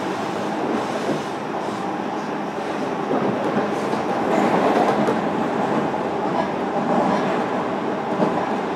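JR Kyushu 305 series electric train running at speed, heard from inside motor car MoHa 305-103: a continuous rumble of wheels on rail and running gear, growing louder about three seconds in.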